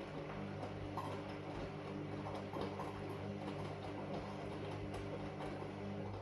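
Washing machine running: its motor hums steadily as the drum turns, with light scattered clicks and rattles, and stops near the end.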